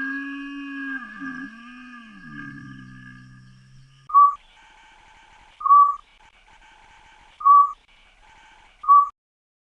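A wild animal's long, drawn-out call that wavers and fades, followed by four short, loud, high-pitched calls about a second and a half apart.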